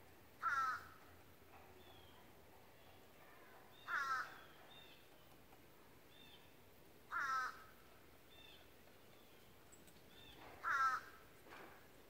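A bird calling four times, each call short and about three and a half seconds apart, with faint smaller chirps from other birds in between.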